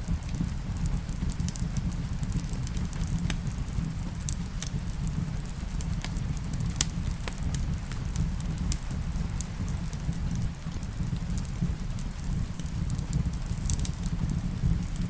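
Wood fire crackling in a fireplace, with frequent sharp pops and snaps over a steady low rumble, and rain falling in the background.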